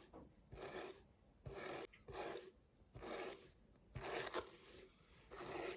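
Massage hairbrush drawn through hair in repeated strokes, each a soft rustling swish, about one stroke a second.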